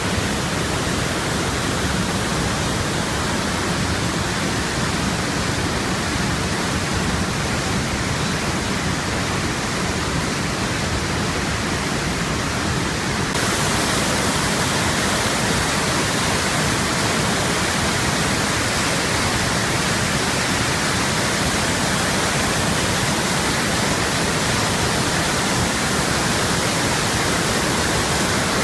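Waterfall, a steady rushing roar of falling water that becomes a little louder and brighter about halfway through.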